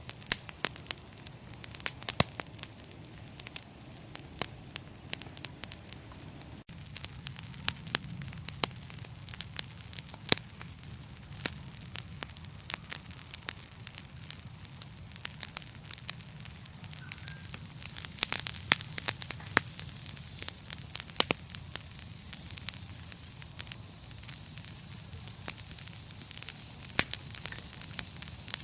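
Fire in a fireplace crackling, with frequent sharp pops and snaps over a steady low rumble and a soft hiss.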